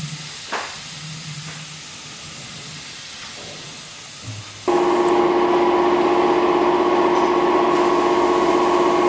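A faint hiss with a low hum and a few clicks, then, about four and a half seconds in, a machine starts suddenly and runs loud and steady with an even hum.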